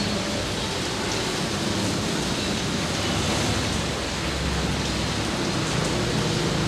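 Steady rain falling, an even hiss with no single drops or thunderclaps standing out.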